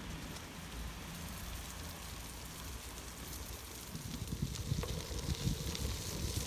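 Gravel bike riding: tyres crunching and crackling over a gravel track, with wind rumbling on the microphone, getting louder and gustier about four seconds in.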